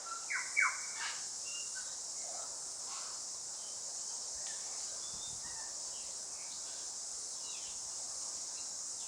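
Forest ambience: a steady high-pitched insect drone, with two short sweeping bird calls about half a second in and a few faint chirps after.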